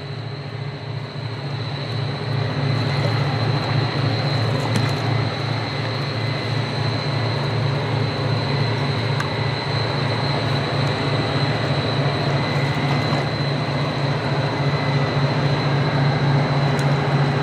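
Heavy diesel engines of a towboat pushing barges, a steady low drone with a slight pulse that swells about two seconds in and then holds, over a wash of water noise.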